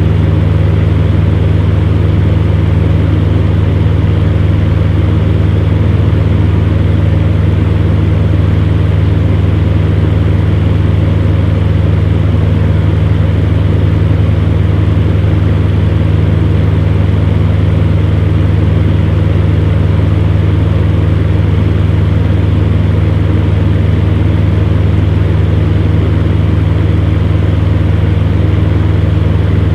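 Electric fan heater running steadily: an even low hum under a constant rush of blown air.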